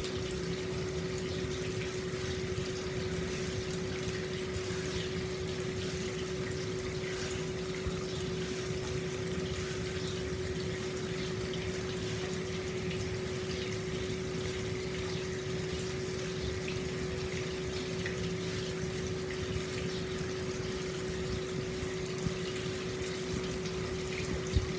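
Hot-spring water pouring steadily into an open-air bath, an even rush and splash with a steady low hum running underneath.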